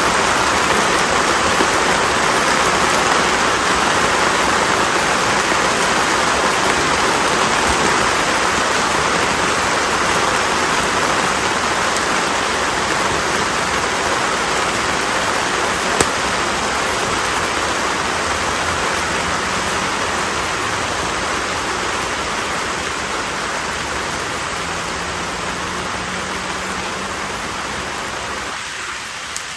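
Konara oak firewood burning in an open campfire: a steady, dense hiss of flames with a few sharp crackling pops, one clearer about sixteen seconds in, gradually easing off a little toward the end.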